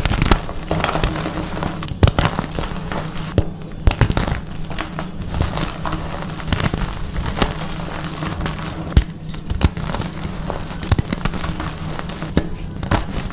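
Blocks of dyed gym chalk being crushed and crumbled by hand: irregular crunches and crackles with sharp snaps as the blocks break.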